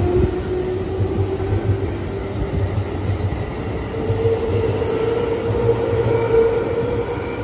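Stainless electric commuter train running past on the rails, with a steady low rumble from its wheels and a motor whine that steps up in pitch about halfway through.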